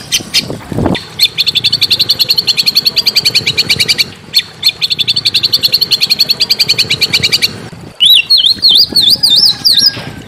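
Small songbird singing: a long, fast trill of short high notes, about ten a second, lasting several seconds, then after a brief break a different phrase of swooping up-and-down whistled notes near the end. A brief low thump sounds about a second in.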